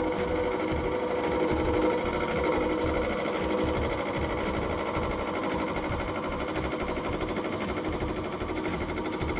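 Lathe spinning a cast resin blank between centers while a turning tool cuts it: a steady machine hum with a rapid, even chatter.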